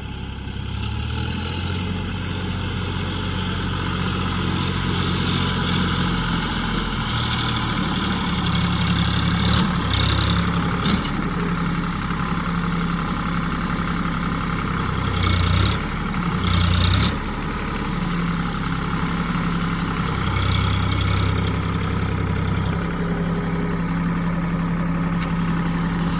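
Sonalika DI 734 tractor's diesel engine running steadily, with a few short louder bursts, one about ten seconds in and two more a little past the middle.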